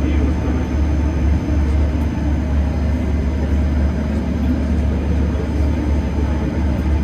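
Steady low machinery hum and rumble inside the cabin of an all-electric tourist submarine, even in level throughout.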